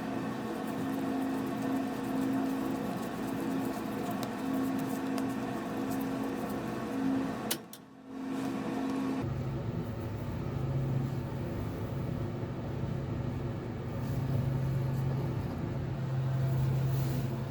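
A small electric motor running with a steady hum. It breaks off briefly about eight seconds in, and a lower-pitched steady hum follows.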